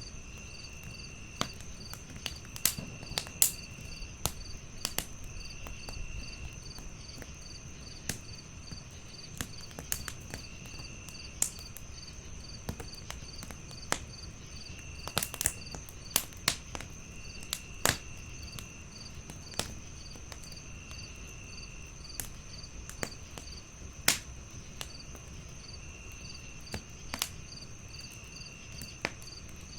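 Wood fire crackling, with irregular sharp pops over a low, steady rumble. Crickets chirp steadily, about two to three chirps a second, over a constant high insect drone. Another insect trills in short bouts every few seconds.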